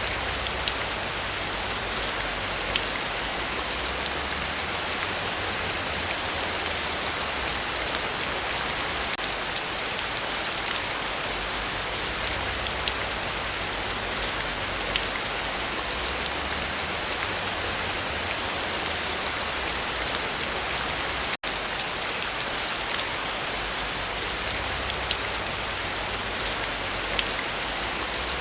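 Heavy rain falling steadily, a dense hiss peppered with the ticks of individual drops. The sound cuts out for an instant about three quarters of the way through.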